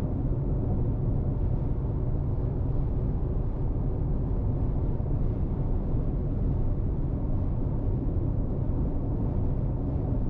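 Chery Omoda 5 driving at a steady speed: an even, low rumble of road and engine noise with no revving.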